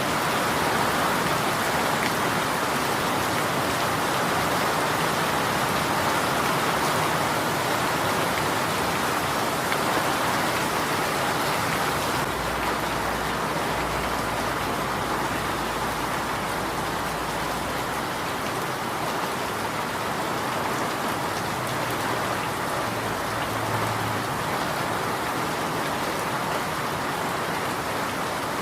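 Steady rain falling: an even, continuous patter of raindrops.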